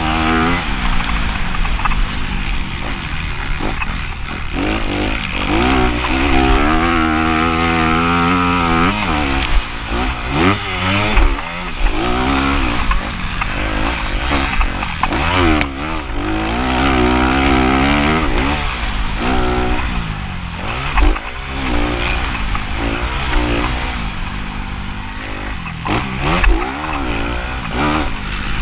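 Motocross bikes racing, their engines revving up and dropping back over and over as riders accelerate, shift and slow through the turns, over a steady low engine rumble.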